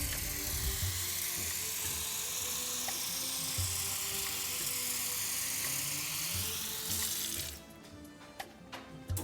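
Water running steadily from a kitchen tap, shut off about seven and a half seconds in, over soft background music; a few light clicks follow.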